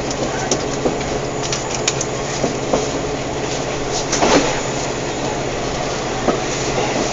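Running noise inside a Thai 'Sprinter' diesel multiple unit at speed: a steady hum and the rumble of the wheels on the track, with scattered clicks and rattles and a louder burst of noise about four seconds in.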